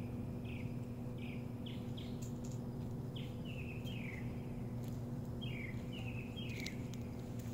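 A songbird singing a run of short chirped notes, each a quick downward slur, repeated about twice a second with brief gaps. A steady low hum runs underneath.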